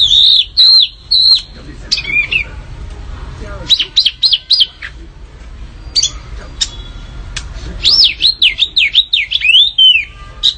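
Small songbird singing loud, high chirps and quick up-and-down whistled notes in short bursts, the lively 'fighting' song used to provoke caged contest birds. A longer run of rapid sweeping notes comes near the end.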